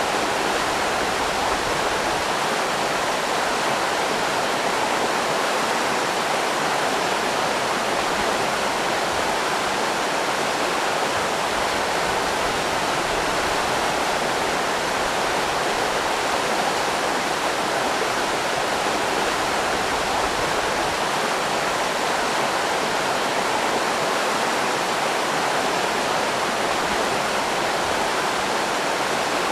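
River rapids rushing steadily, an even roar of moving water with no break or change.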